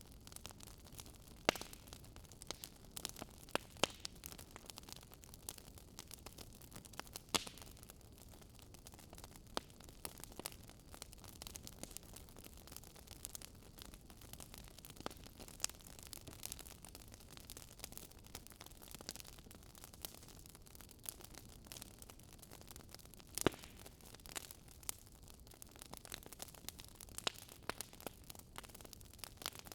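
Wood fire crackling in a fireplace: irregular sharp pops and snaps over a faint steady hiss, with a few louder pops, the loudest about three quarters of the way through.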